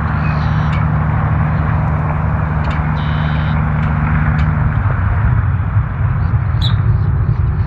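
Aircraft engine running during a departure: a steady low drone that shifts in pitch about four and a half seconds in. Birds chirp near the end.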